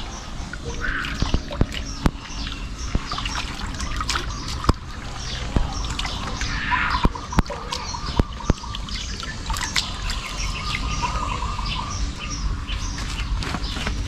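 Small birds chirping many short calls over a steady sound of running water, with scattered sharp clicks or taps.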